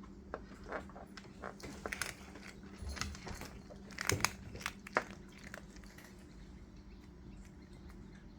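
A cat crunching dry treats: irregular small crunches and clicks for about five seconds, then they stop.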